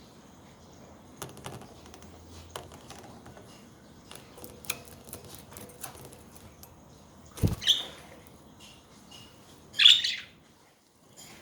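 Pet budgerigars in a cage: scattered light clicks and taps, a thump about two-thirds of the way through, and one loud harsh chirp near the end.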